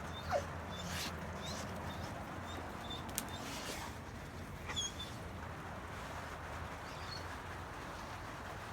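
Dog whimpering in short high-pitched squeaks scattered every second or so, with a louder whine near the start. It is the dog's usual reaction to noise from next door.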